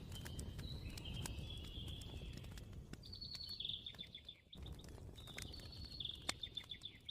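A songbird singing long whistled notes, then rapid trills twice, over a wood fire crackling with sharp pops and a low steady rumble.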